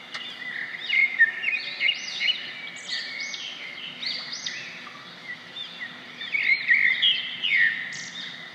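Several small birds chirping, with many short, quick, overlapping calls.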